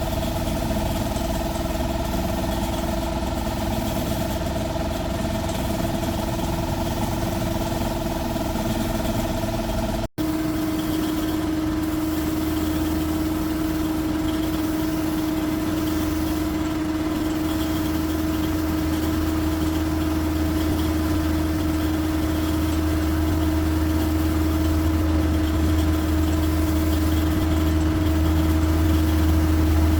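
Box truck's diesel engine running steadily at idle. A brief break about ten seconds in, after which the note is deeper and grows slowly louder.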